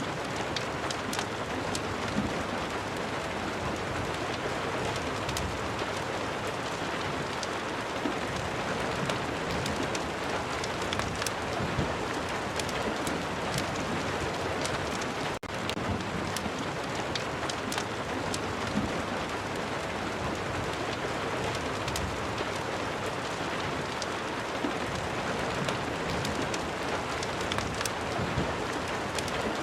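Steady rain mixed with a crackling fire, with many small sharp crackles over a dense even hiss. The sound drops out for an instant about halfway through.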